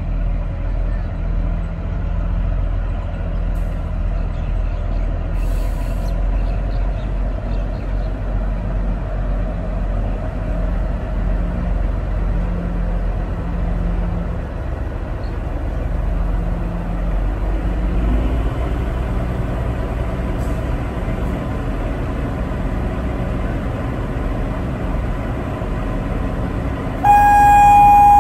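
Narrow-gauge diesel train running with a steady low rumble as it pulls away, then a loud horn blast about a second before the end.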